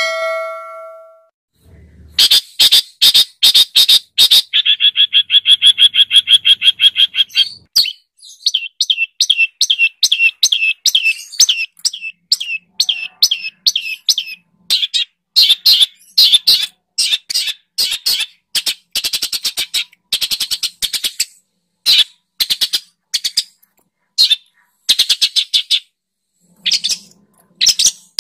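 Songbird calls from a masteran (song-training) track for a long-tailed shrike: fast runs of sharp, high-pitched chirps and buzzy trills, repeated in phrases with short pauses between them.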